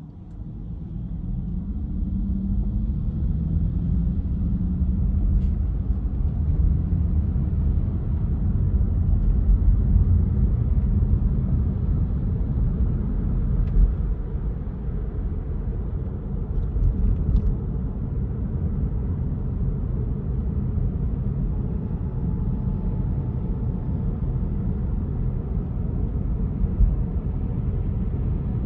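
Car driving, a low rumble of engine and road noise that grows louder over the first couple of seconds as the car gets going, then holds steady.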